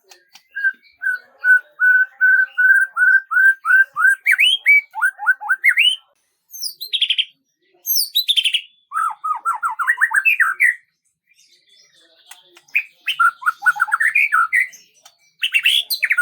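A songbird singing in phrases: first a run of about a dozen evenly repeated notes on one pitch, then quicker notes sweeping up and down, followed by several more rapid chattering phrases with short pauses between them.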